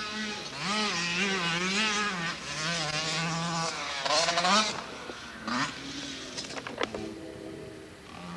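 Motocross bike engine revving hard, its pitch climbing and dropping back several times as the throttle is worked and gears are changed. It grows quieter in the last few seconds as the bike moves away.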